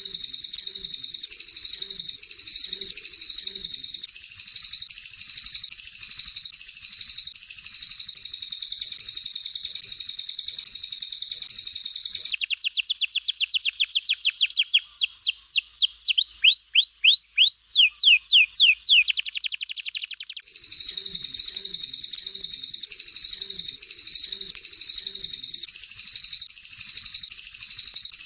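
Recorded songbird 'tembakan' song of canary and cililin: a very high, rapid continuous trill, which gives way about twelve seconds in to a run of fast descending whistled sweeps that quicken, then returns to the trill about twenty seconds in.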